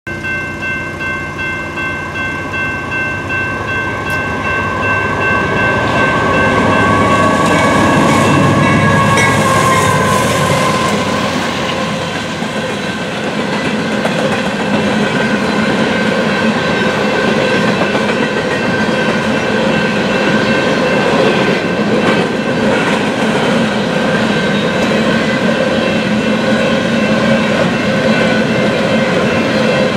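Union Pacific coal train passing a level crossing. The diesel locomotives approach with steady pitched tones of the horn and crossing signal and a pulsing ring at first. They grow loudest and drop in pitch as they pass, about eight to ten seconds in. Then the coal hopper cars roll by with a steady rumble and clickety-clack of wheels over the rail joints.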